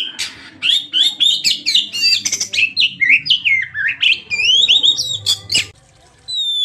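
Oriental magpie-robin (kacer) singing vigorously: a fast run of varied whistled notes, many sliding up or down, mixed with harsh chattering notes and clicks. The song pauses briefly about six seconds in, then a new whistle begins near the end.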